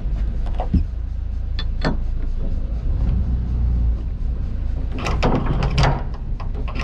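Low steady rumble of a sailboat's diesel engine running slowly while manoeuvring, with a few sharp knocks and clicks and a cluster of rattling clicks about five seconds in.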